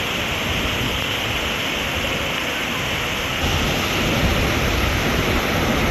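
Waterfall water rushing in a steady roar of noise, growing a little louder and deeper about three and a half seconds in.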